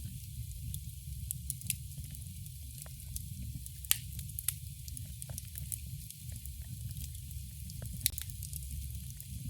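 Campfire crackling: a stream of sharp pops and snaps from the burning wood over a low steady rumble, with two loud pops about four and eight seconds in.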